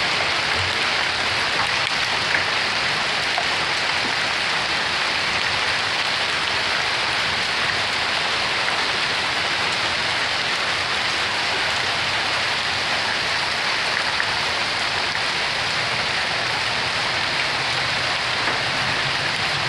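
Hail of mixed sizes coming down hard and steadily with rain, a dense, even clatter with a few slightly louder single hits.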